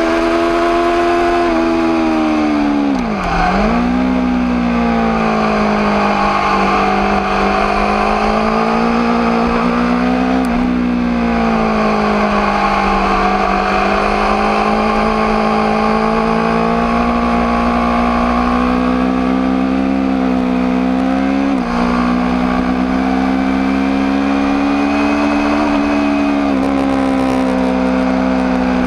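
Aprilia RSV4 APRC's V4 engine running under way at a steady, high pitch. About three seconds in the pitch drops sharply and climbs back, and it shifts more briefly near ten seconds and again about twenty-two seconds in.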